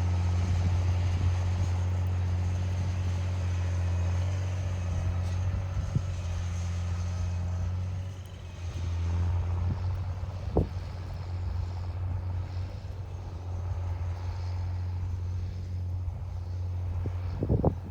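John Deere 8200 tractor's six-cylinder diesel engine running steadily under load while pulling a deep-till cultivator, a low even drone that eases briefly near the middle. A few short knocks sound over it.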